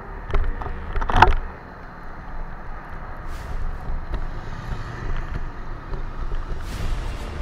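Motorcycles running at a roadside, with a few sharp knocks and then a loud clatter about a second in, followed by steady engine rumble.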